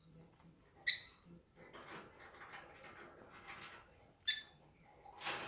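Peach-faced lovebirds giving two short, sharp, high chirps about three seconds apart, with softer scratchy chatter between them and another call swelling near the end.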